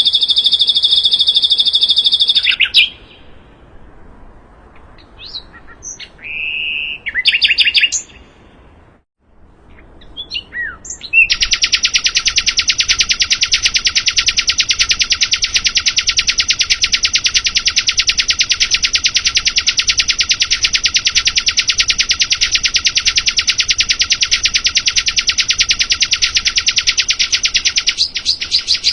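Sikatan londo song: a very fast, buzzing, rattling trill that breaks off about 3 seconds in, a few short separate chirps, then the trill starts again about 11 seconds in and holds unbroken for some 17 seconds.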